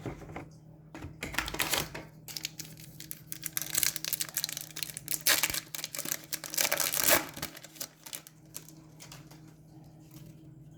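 Trading cards and a card pack being handled: a run of quick crinkles, flicks and clicks that is busiest in the middle and dies down near the end, over a faint steady hum.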